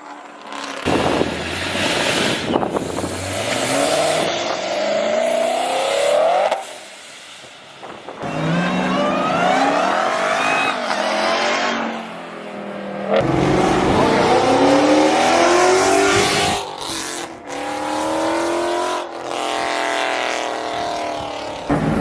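High-performance car engines revving hard in several separate pulls, the pitch climbing on each acceleration, with some tire squeal.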